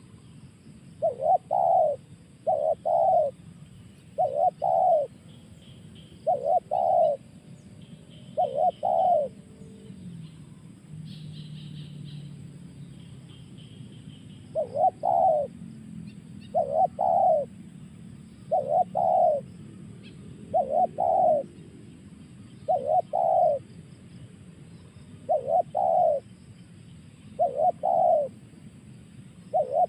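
Spotted dove (tekukur) cooing: a short two-part coo repeated about every two seconds, with a pause of a few seconds in the middle.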